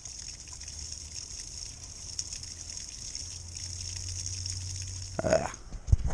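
Steady rush of water, with a brief louder sound about five seconds in and a few knocks near the end.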